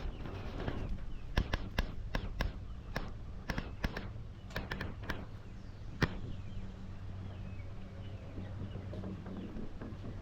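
A run of sharp, irregular taps and clicks through the first half, then faint chirping of poultry over a steady low hum.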